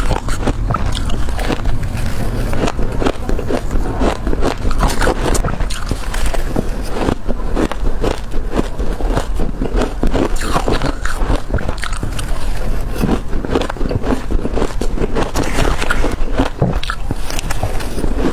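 Close-up crunching of hard crushed ice being bitten, one rapid crackly crunch after another with no pauses.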